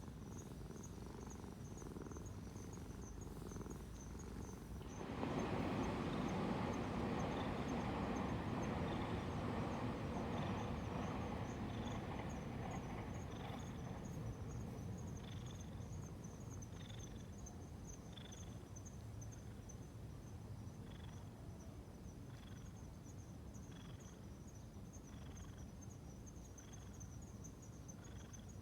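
Insects chirping steadily in a high, fast pulsing trill, with separate short chirps repeating about every second and a half in the later part. About five seconds in, a broad rushing noise comes in suddenly and fades away slowly.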